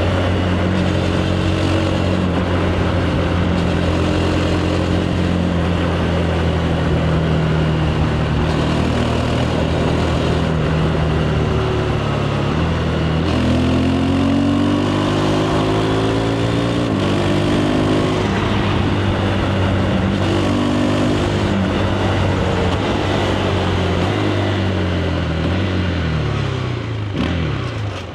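KTM 390 Adventure's single-cylinder engine through its stock exhaust, pulling at a steady pace for about the first half, then accelerating, its pitch climbing and dropping back several times as it shifts up, and falling off near the end as the throttle closes, over a steady rush of wind and road noise.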